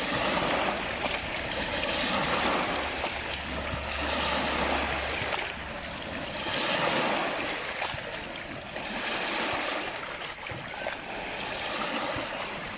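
Small lake waves washing against the shore, the splashing swelling and ebbing every two to three seconds.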